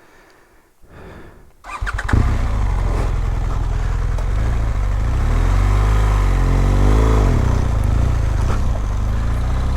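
BMW R1200GS boxer-twin engine starting about two seconds in, then running loudly and revving up and back down as the bike is ridden out of deep mud.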